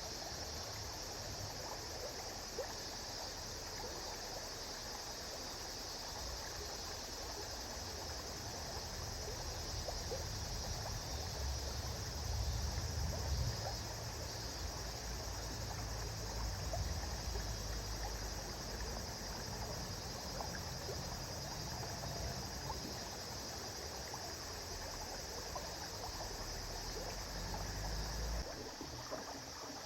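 A river flowing steadily, with a continuous high chirring of insects behind the water.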